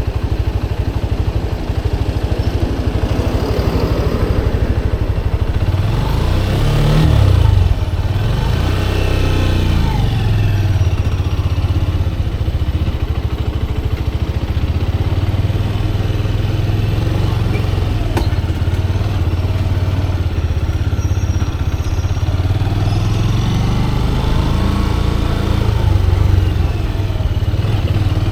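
Motorcycle engine running steadily while riding, its pitch rising and falling about six seconds in and again near the end.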